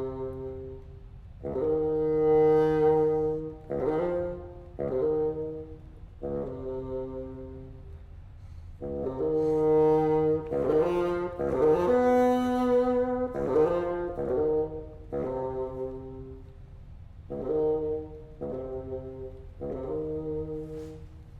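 Contemporary classical chamber music for solo bassoon and ensemble of flute, clarinet, harp, piano, violin, viola and cello. It moves as a series of held wind and string chords in short phrases, each lasting a second or two, with brief gaps between them.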